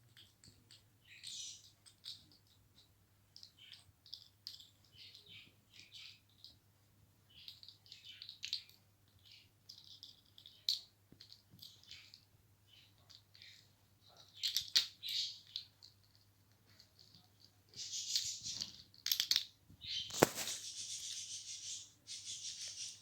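Ringneck parrot giving short high calls in scattered bursts while rattling and knocking its toys, getting busier and louder over the last few seconds, with a sharp click near the end.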